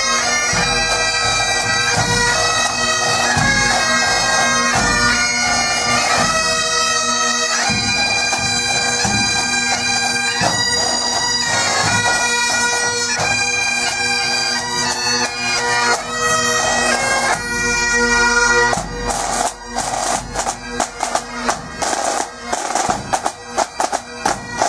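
Bagpipes playing a tune over their steady drones, the pipes stopping about three-quarters of the way through. Snare drumming follows in quick, choppy strokes.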